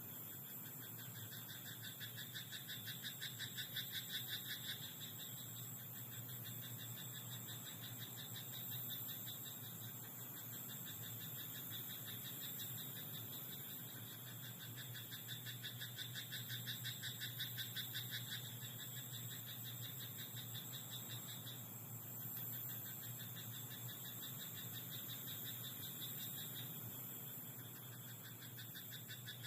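A chorus of frogs calling in a flooded rice paddy: several frogs overlap in fast, rattling pulsed croaks that come in bouts of a few seconds, over a steady faint hum and hiss.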